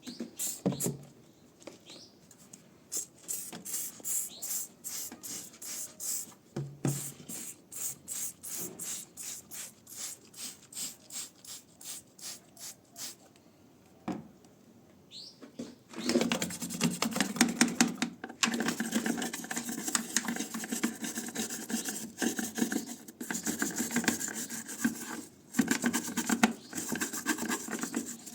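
Hand scrubbing: short, even strokes at about two a second, then after a short pause a faster, louder, continuous scrubbing.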